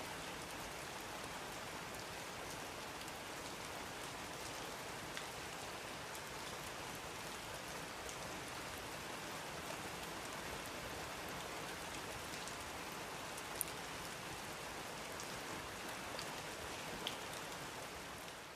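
Steady rain falling, an even hiss with now and then a single drop ticking more sharply. It fades out at the very end.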